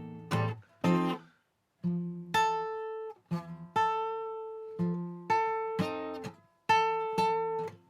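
Acoustic guitar playing a blues in F, single plucked notes and strummed chords that each ring out and die away. There is a short pause about a second and a half in.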